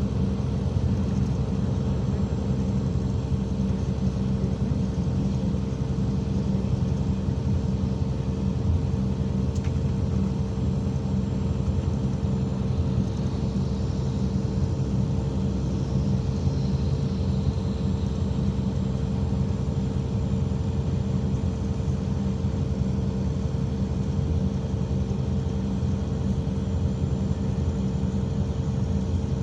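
IVECO Crossway 13M PRO city bus under way: a steady engine and drivetrain drone with a constant whine above it, unchanging throughout.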